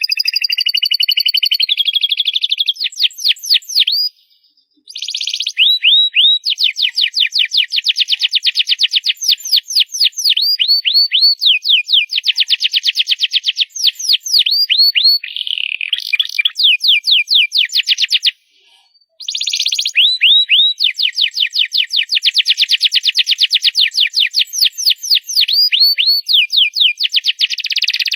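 Domestic canary singing loud, in long rapid trills and rolls of high repeated notes, with two brief pauses, about four seconds in and about eighteen seconds in.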